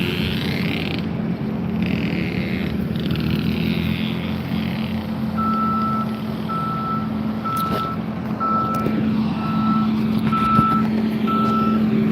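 A vehicle's reversing alarm beeping at one steady pitch, about one beep a second, starting about halfway through, over a steady engine hum.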